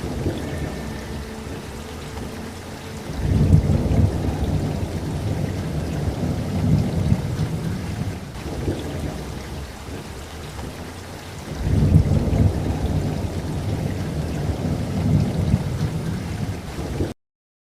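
Steady rain with two long, low rolls of thunder, the first swelling in about three seconds in and the second about two-thirds of the way through. The sound cuts out completely just before the end.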